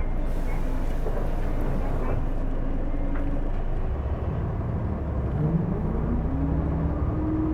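Hino Blue Ribbon II city bus heard from inside the cabin, its diesel engine running as the bus moves. About halfway through the engine note strengthens and a whine rises in pitch, then holds steady.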